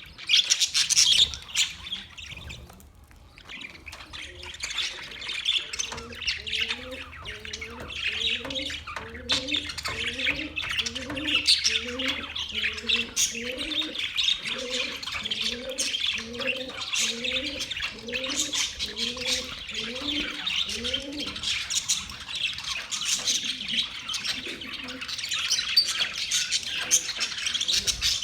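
A flock of budgerigars chirping and chattering continuously. Through much of the middle, a separate low, rising call repeats a little more than once a second.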